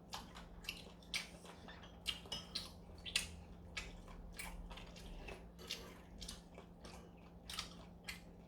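A person eating close to the microphone: irregular wet chewing and mouth smacks, several a second, over a faint steady hum.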